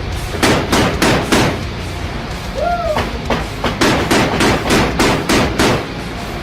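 Mark 38 25 mm naval chain gun firing at a slow rate, about three shots a second. Four shots come first, then after a short pause a string of about nine more, over a steady low rumble.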